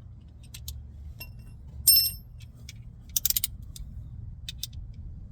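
Metal hand tools clinking as a socket extension is pulled off a ratchet and handled: scattered light clicks, one ringing metallic clink about two seconds in, then a quick run of clicks about a second later, over a steady low hum.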